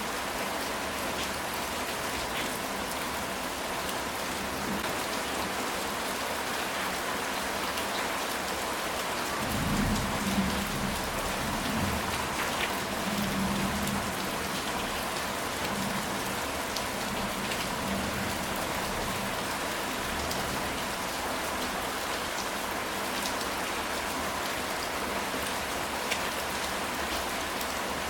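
Steady rain falling on a ceramic tile roof, with a low roll of thunder about ten seconds in that rumbles on for several seconds and fades.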